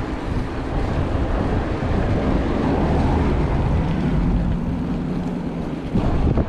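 Wind buffeting the microphone of a camera on a moving mountain bike: a steady rushing noise with a strong low rumble.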